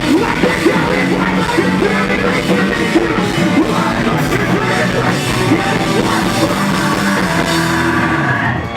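Live post-hardcore rock band playing loudly: drum kit, distorted guitars and bass, with vocals. The music cuts off right at the end.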